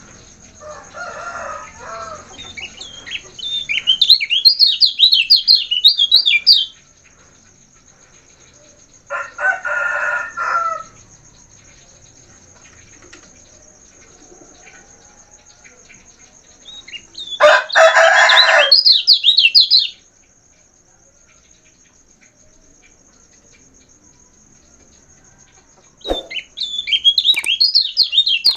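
Kecial kuning songbird singing in three bursts of rapid, high twittering phrases. Three lower calls of about two seconds each come in between, and a faint steady high tone runs underneath.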